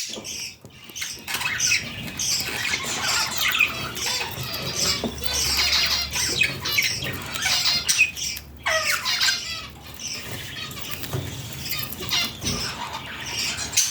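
Budgerigar chicks calling with a busy run of short, high, squeaky chirps, one call sliding down in pitch near the middle: the begging calls of baby budgies at feeding.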